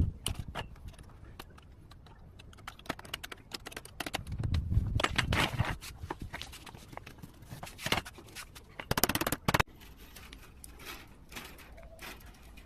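Wire being worked with pliers on a plastic chair: scattered clicks and scrapes, with a dense run of rapid clicks about nine seconds in.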